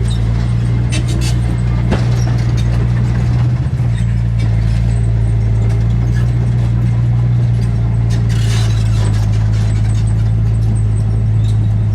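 Heavy construction machine's diesel engine running steadily at a constant speed, with a brief clatter about eight and a half seconds in.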